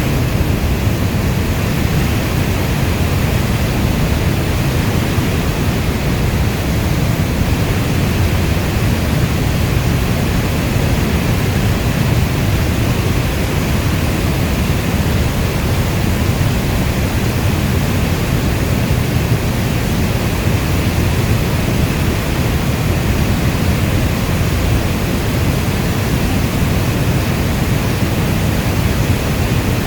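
Steady rainfall recording: a dense, unbroken hiss of rain with a deep, even low rumble beneath it, with no thunder or single drops standing out.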